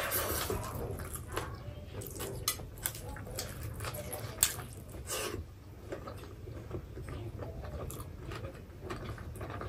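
Close-miked eating sounds: two people chewing rice and pork curry eaten by hand, with many short wet mouth clicks and smacks, a few louder ones around four and five seconds in.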